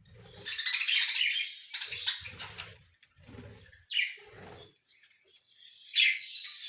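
A flock of budgerigars chattering and chirping. A dense burst of calls comes about a second in, and single sharp calls follow near four and six seconds. Low muffled rustles sound between the calls.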